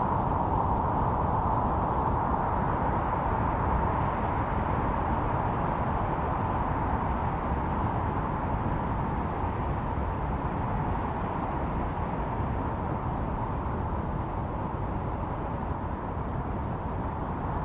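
Blizzard wind blowing and howling steadily over a low rumble, the howl easing a little midway and swelling again near the end.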